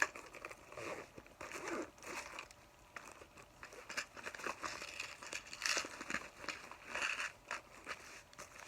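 Crinkling and rustling as small items are handled and packed into a small bag, with irregular small clicks and taps among them.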